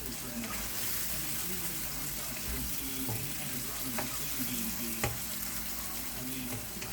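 Saltfish, carrot and scotch bonnet sizzling steadily as they fry in a pot, with two light clicks about four and five seconds in.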